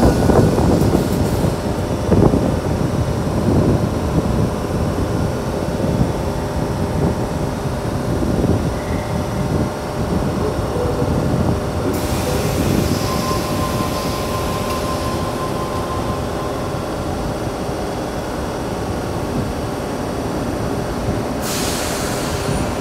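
A Tangara double-deck electric train standing at an underground platform, its steady low hum filling the station. A high hiss sets in about halfway through, and a short stronger hiss comes near the end.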